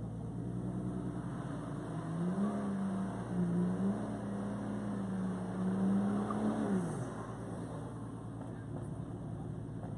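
Six-cylinder turbo engine of a modified Audi A3 revved up with the car standing still, held at steady high revs for about four seconds, then dropping back to idle.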